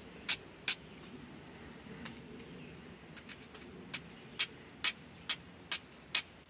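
Flint and steel striking, a sharp scraping strike about twice a second, with a pause of a few seconds after the first two. It is throwing sparks onto char cloth that is not catching, which the striker suspects has picked up moisture.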